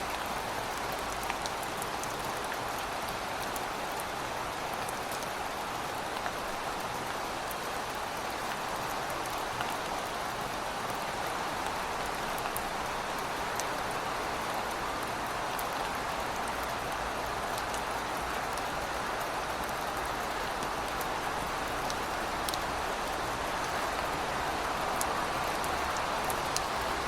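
Heavy rain falling steadily: a dense, even hiss with scattered sharp drip ticks.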